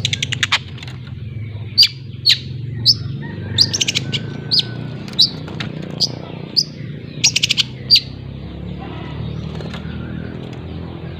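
Young long-tailed shrike (cendet) calling as it learns its chattering song: a quick high trill at the start, then sharp, high chips about every half second, some in fast runs of four or five. The calls stop about eight seconds in.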